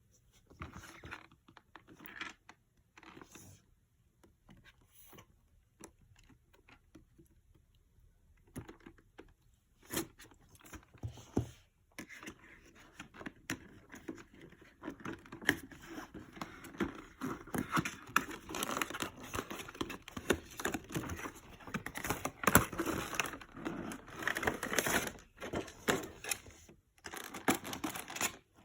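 Toy packaging being unwrapped by hand: irregular crinkling and tearing of plastic and paper with small clicks and knocks, sparse and quiet at first and busier from about ten seconds in.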